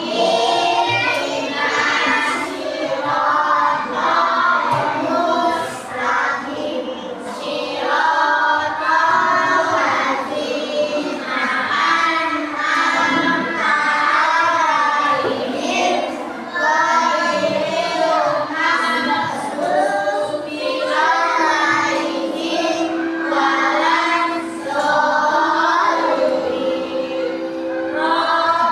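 A class of young children singing together in unison, continuously, with some notes held longer near the end.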